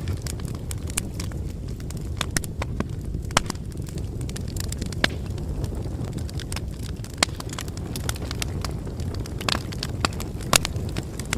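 Bonfire crackling: irregular sharp pops and snaps over a steady low rumble of burning flames.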